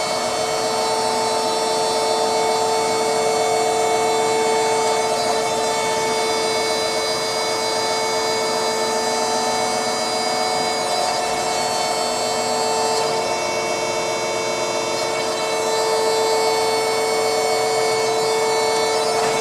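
Danobat RT-2500 horizontal surface grinder running under power: a steady mechanical hum of several held tones over a rushing hiss.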